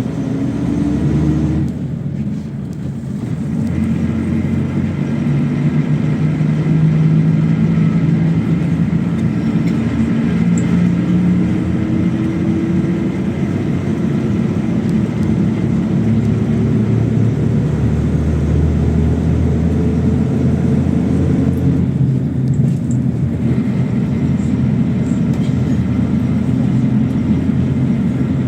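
PAZ-32054 bus engine pulling under load, heard from inside the bus while it drives. Its pitch rises steadily as the bus speeds up, with a brief dip about two seconds in and again near the end, like gear changes.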